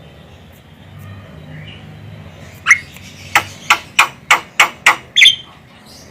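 Javan myna calling: after a few quiet seconds, one short call, then a rapid run of about six sharp, clipped notes roughly three a second, ending in a louder, more ringing note.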